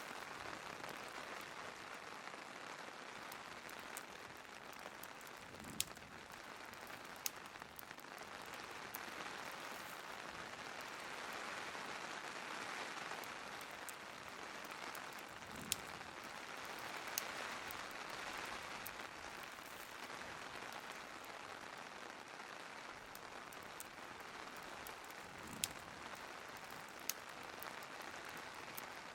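Steady rain ambience with a few sharp wood-fire crackles and pops. The pops come in pairs about a second and a half apart, roughly every ten seconds.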